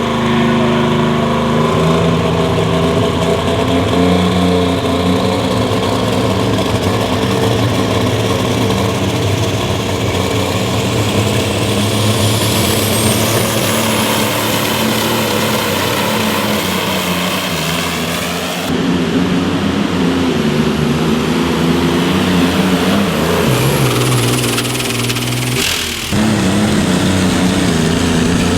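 Engine of a truck or tractor at a sled pull, running loud and hard under load with a steady pitch. A high whine rises about twelve seconds in, and the sound changes abruptly twice, near 19 and 26 seconds in.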